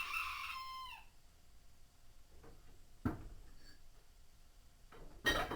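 Parts of a washing machine tub being fitted together: a short high squeal in the first second, then two sharp knocks about two seconds apart.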